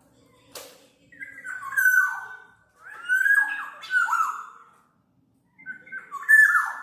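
Black-naped oriole giving rough calls that slide down in pitch, in three bouts of a second or so each, with a single sharp click about half a second in.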